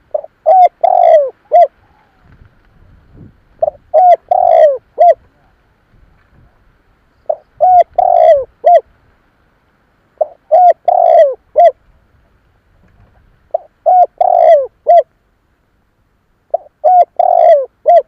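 Spotted dove cooing: six phrases of several low, bending notes each, repeated about every three seconds. It is a decoy dove's song, of the kind used to call in wild doves.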